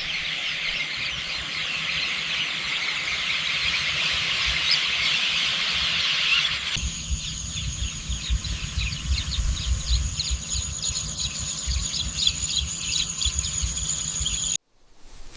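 Countryside ambience of a dense chorus of chirping birds. After an abrupt cut about seven seconds in it becomes a steady high shrill with rapid pulsing over a low rumble, which cuts off suddenly near the end.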